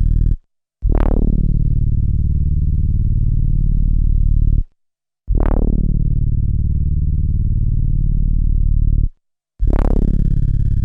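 SP-1200 12-bit sampler playing back a sampled low synth note three times. Each note opens with a bright downward sweep and holds about four seconds, with short gaps of silence between them.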